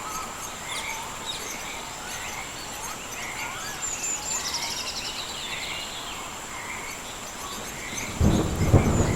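Rainforest animal chorus: a steady high insect whine, short frog calls repeating about once a second, rapid trills and bird chirps. About eight seconds in, a loud rumble of thunder breaks in.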